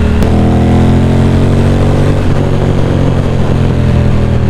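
Ducati Monster 620's air-cooled V-twin engine on the road, its note falling steadily as the bike slows on a closed throttle, with a change a little past two seconds into a second, slowly falling note, as from a gear change.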